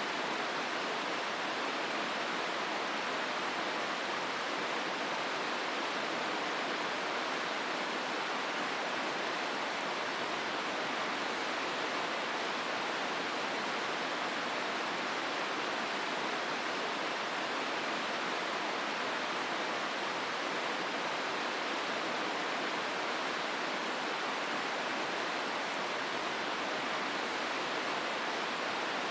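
Hozu River water rushing steadily through the rocky gorge, an even, unbroken rush.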